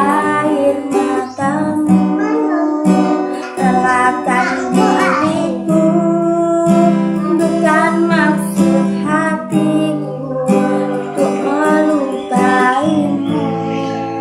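Acoustic guitar strummed with a voice singing along.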